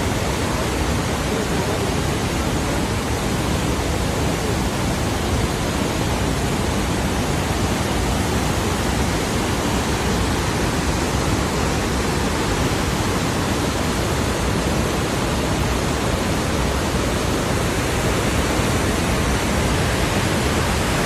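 Water of the Rhine Falls, a large river waterfall, pouring over the rocks: a steady, unbroken rushing noise.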